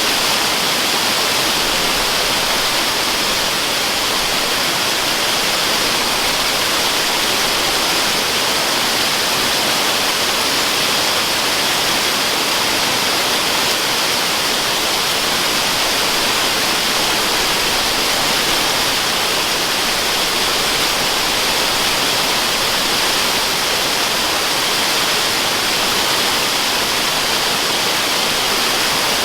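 Waterfall: a steady rushing hiss of falling water that does not change in level, heavier in the treble than in the bass.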